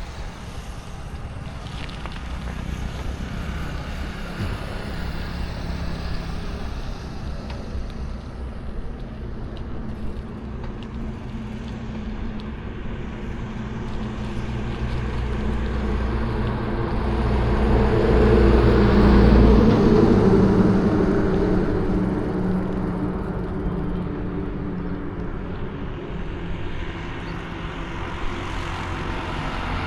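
Street traffic heard from a moving bicycle: a steady hum of vehicle engines and tyre noise. One vehicle passes close about two-thirds of the way through, rising to the loudest point and then fading.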